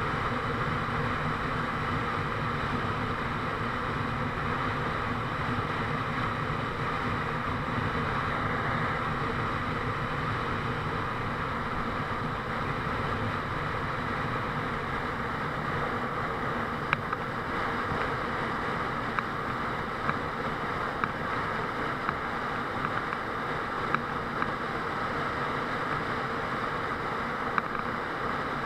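Honda Transalp 650 motorcycle running with a steady, even noise. Several sharp clicks come through in the second half.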